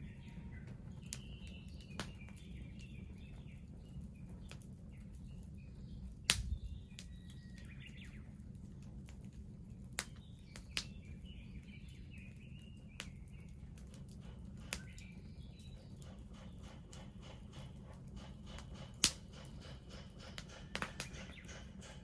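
Wood bonfire crackling, with sharp pops scattered through it. The loudest pop comes about six seconds in and another near the end, and the crackling grows denser in the last few seconds. Small birds chirp in short bursts over it.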